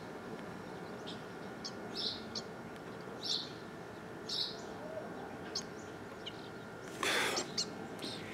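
A small bird chirping repeatedly, short high chirps about once a second over quiet outdoor background. Near the end there is a short breathy puff of air.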